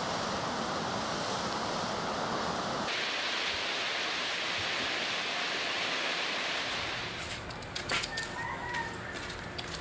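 Steady frying sizzle and flame noise from a wok flaring over a gas burner. At a cut about three seconds in it becomes a different steady sizzle from a hot pot of fried eel. In the last few seconds it gives way to quieter outdoor sounds with scattered light knocks and a brief bird call.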